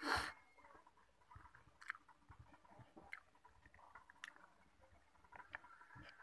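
A person quietly chewing a mouthful of soft braised pork and rice, with scattered faint wet mouth clicks. A brief rush of noise, the loudest sound, comes right at the start.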